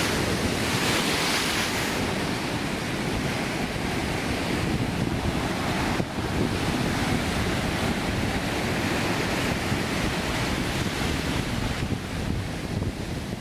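Heavy swell surf (mar de leva) breaking and washing up the beach, a continuous churning hiss that surges louder about a second in and again later, with wind buffeting the microphone.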